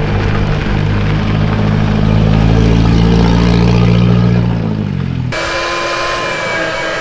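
A vehicle engine running at a steady speed while driving, then slowing, its pitch dropping, from about four and a half seconds in. It cuts off suddenly just after five seconds, leaving a quieter background with a few faint steady tones.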